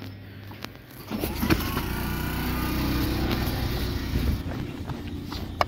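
Electric train beside the platform: a loud, steady rumble with a motor hum that starts about a second in and eases slightly near the end.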